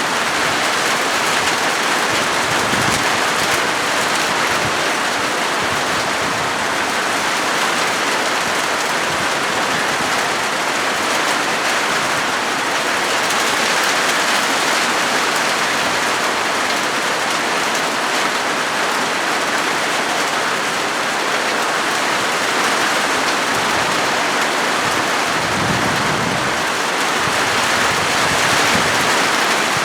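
Heavy rain drumming steadily on a corrugated zinc sheet roof, a dense even patter.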